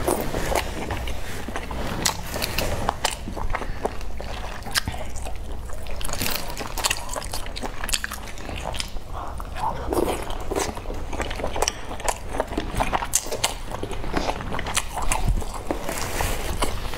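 A person chewing soft boiled dumplings dipped in chili-oil sauce, with frequent short wet mouth clicks and lip smacks throughout.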